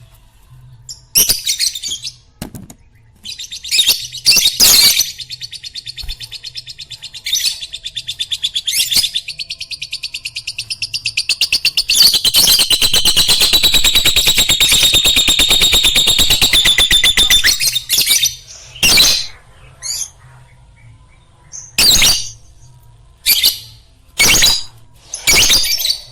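Lovebirds chirping: sharp, shrill calls, with a long run of rapid chattering in the middle.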